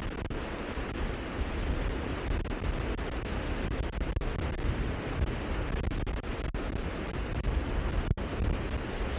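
Steady rushing of wind and sea, heaviest in the low end where the wind buffets the microphone, with a few split-second dropouts.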